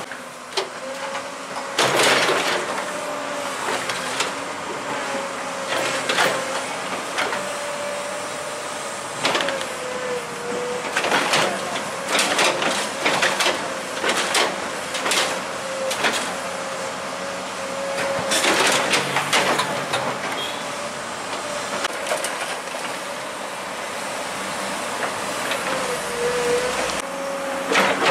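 Heavy machinery running with a steady, slightly wavering whine, broken by repeated sharp clanks and rattles, in clusters about 2, 6, 12 to 15 and 18 to 19 seconds in.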